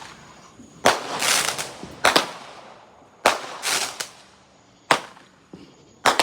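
Small fireworks going off: about five sharp bangs spaced a second or so apart, two of them followed by a short fizzing crackle.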